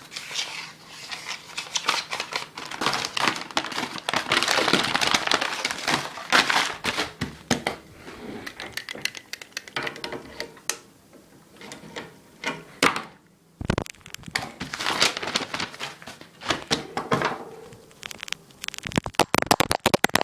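Paper being crinkled and handled: a long run of crackles and sharp clicks, ending in a fast, even burst of clicking.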